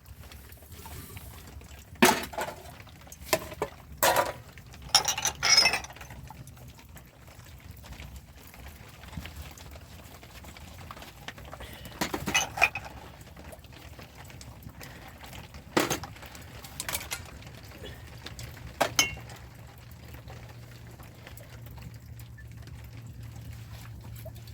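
Dishes and pots clinking and knocking several times at irregular intervals as they are handled, with water sounds in between.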